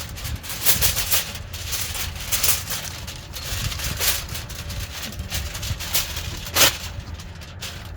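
Heavy-duty aluminium foil being handled and crinkled, with irregular crackling rustles and one sharper crackle about six and a half seconds in.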